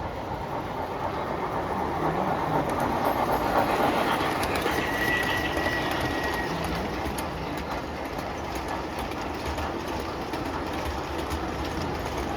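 O gauge electric toy train running on its track, a steady rumble with fine rail clicking that swells as it comes closest about three to four seconds in, then eases off.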